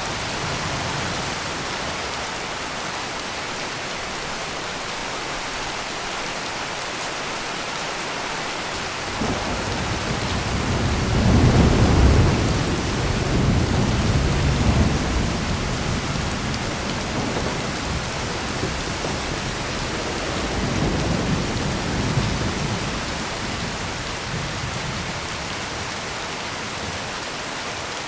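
Heavy rain pouring steadily. About nine seconds in, a peal of thunder breaks in suddenly with a deep rumble. It is loudest a few seconds later, then rolls on in slow swells before dying away.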